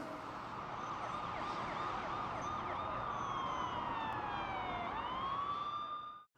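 Emergency-vehicle siren: quick yelping up-and-down sweeps, then a long slow fall in pitch that climbs back up near the end, over a steady rushing noise. It cuts off suddenly.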